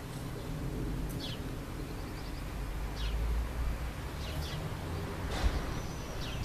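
Outdoor ambience: a steady low rumble, with a bird giving several short, quick chirps that fall in pitch. A single sharp knock sounds about five and a half seconds in.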